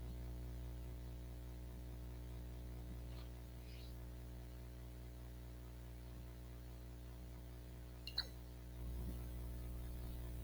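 Faint steady electrical mains hum with its overtones, with a few soft clicks about three to four seconds in and a sharper click about eight seconds in.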